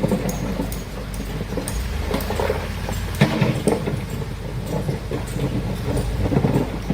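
Heavy excavator working: a steady engine drone with irregular metallic clanks and knocks, louder about three seconds in and near the end.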